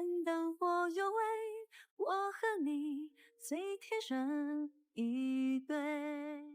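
A woman's voice singing a slow melody in short phrases of held notes that glide between pitches, with no instruments standing out.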